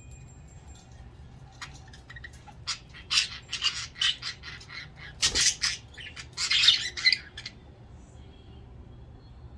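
Budgerigars squawking and chattering in a burst of loud, harsh, short calls that starts about three seconds in and stops about halfway through.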